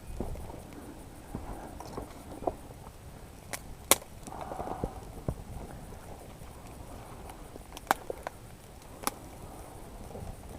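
Dry twigs at a small kindling campfire of birch bark and thin sticks: scattered light knocks and crackle, with a few sharp snaps, the loudest about four seconds in.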